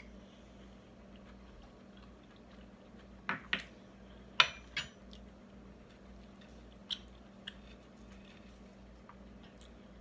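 A person biting into and chewing a chicken quesadilla close to the microphone: a few sharp mouth clicks and crunches, the loudest a little over four seconds in, over a faint steady hum.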